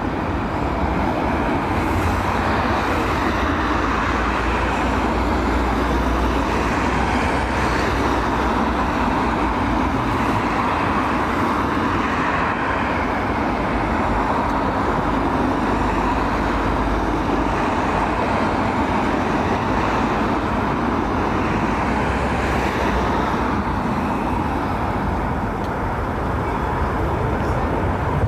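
Storm-force wind blowing across an outdoor microphone: a steady, loud rushing noise with uneven gusting surges in the low rumble.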